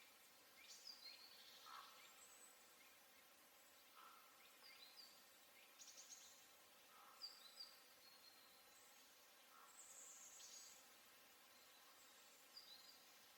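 Faint songbird calls over a quiet background hiss: scattered short high chirps and down-slurred notes, with a lower short call repeating about every two seconds.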